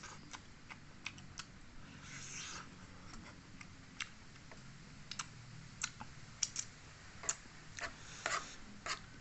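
Close-up mouth sounds of someone eating a chicken thigh: irregular wet smacking clicks from chewing and pulling meat off the bone.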